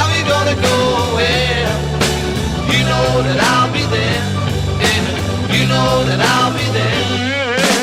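Late-1960s beat-rock record playing: drum kit, bass and electric guitar keep a steady beat, with a wavering vibrato melody line coming in near the end.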